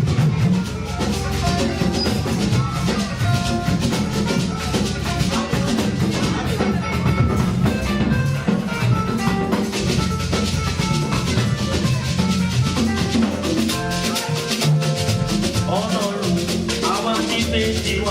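Church praise band music with a drum kit keeping a steady beat, played as an instrumental passage between sung verses.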